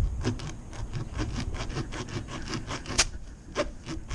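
Tire plug kit's reamer tool being worked in and out of a screw puncture in a car tire, scraping in quick repeated strokes, several a second, to rough up the hole before the plug goes in.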